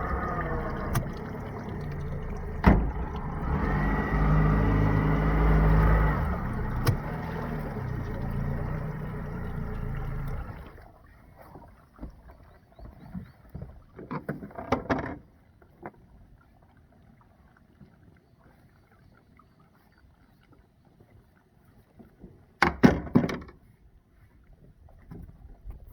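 Small boat's motor running steadily, then cutting off abruptly about eleven seconds in. What follows is much quieter, broken by a few short clusters of knocks and clatter.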